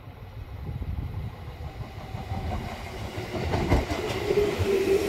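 JR East 211 series electric train pulling into the platform, its wheels clattering over the rails and growing louder as it draws near. A steady whine sets in about three and a half seconds in and strengthens as the cars roll past.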